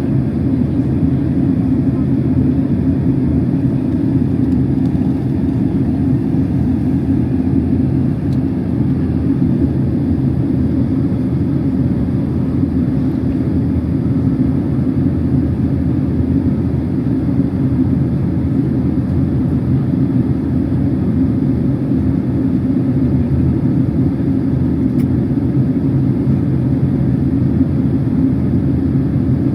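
Steady cabin noise of a Boeing 767-300 airliner in flight: an even, unbroken rumble of engines and airflow.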